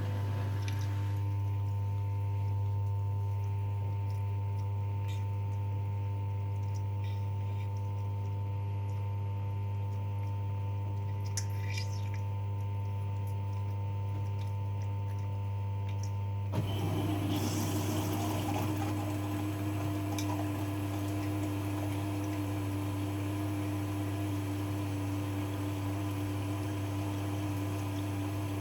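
V-Zug Unimatic SL washing machine running early in a 40 °C wash, a steady hum with water running in. A little past halfway the sound changes abruptly to a louder, hissier running noise with a steady hum over it.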